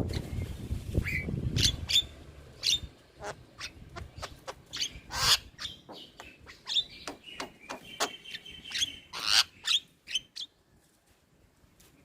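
Javan myna (jalak kebo) calling: a rapid string of short, sharp chirps, clicks and whistles that stops about ten seconds in. A low rumble lies under the first couple of seconds.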